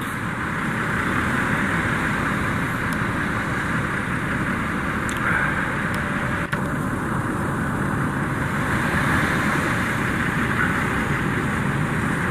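A boat's outboard motors running as it reverses and manoeuvres, under a steady rushing noise, building slightly about a second in.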